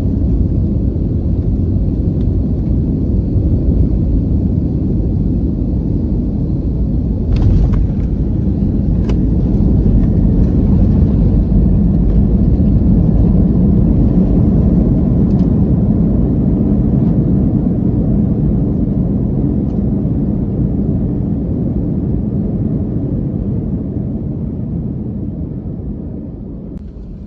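Airbus airliner heard from inside the cabin on the runway after touchdown: a loud low roar of engines and rolling wheels that swells about ten seconds in, then dies away steadily near the end as the aircraft slows.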